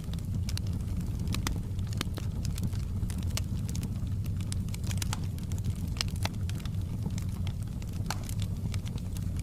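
Wood fire in a fireplace burning with a steady low rumble and frequent, irregular sharp crackles and pops.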